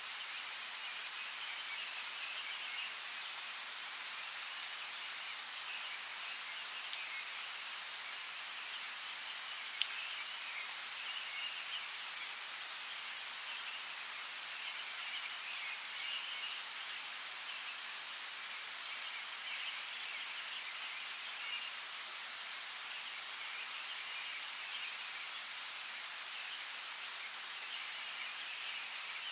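Steady rain falling, with scattered louder single drops hitting close. High chirping comes and goes in short spells over the rain.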